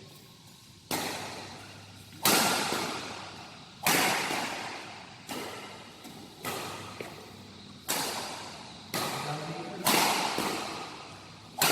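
Badminton rally: about nine sharp racket-on-shuttlecock hits, roughly one every second or so, each dying away in a long echo.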